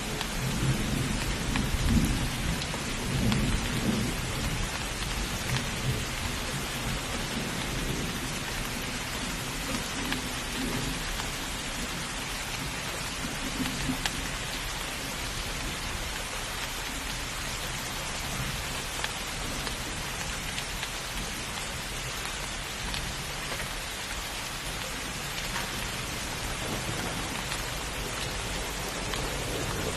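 Heavy steady rain with rolling thunder, the low rumble strongest in the first few seconds and then dying away under the hiss of the downpour.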